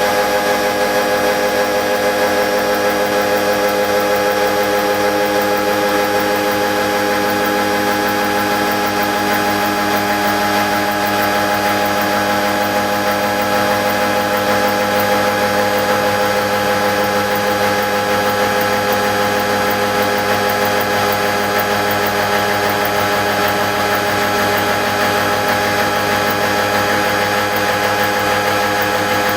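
Gear-milling machine running steadily, a constant mechanical hum with several fixed whining tones over a noisy hiss.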